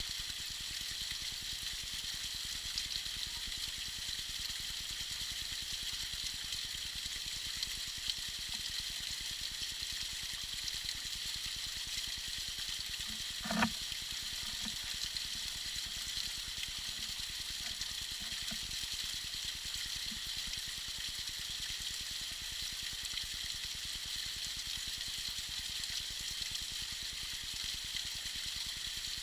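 Small icy waterfall splashing and trickling in a steady, bright hiss of falling water, with one brief thud about halfway through.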